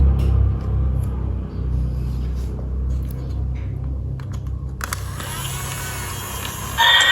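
Battery-powered toy steam locomotive running on plastic track, its small motor and gears giving a steady low rumble with light clicks. Near the end the toy's loud electronic sound effect switches on.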